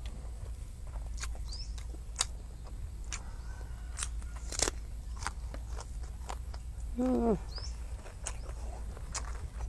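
Close-up mouth sounds of a person eating rice and grilled fish by hand: chewing with scattered wet lip-smacks and clicks. About seven seconds in there is a short, falling hum of appreciation.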